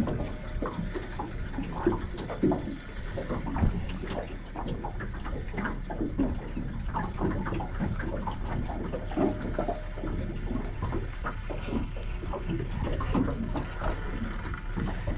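Water lapping and slapping in short, irregular splashes against the hull of a small boat.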